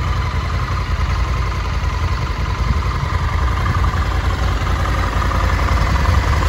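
2020 Honda CRF1100 Africa Twin's 1084cc liquid-cooled parallel-twin engine idling steadily.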